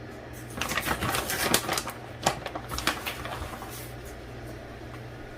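Crackly rustling and clicking as shredded mozzarella is handled and spread over a pizza, lasting about three seconds and then stopping.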